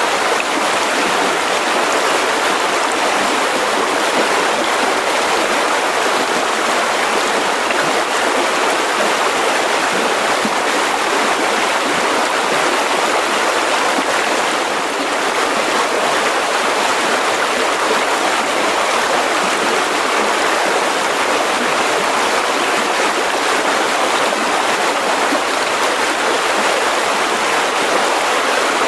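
Mountain river rushing steadily over rocks, a dense, even rush of water.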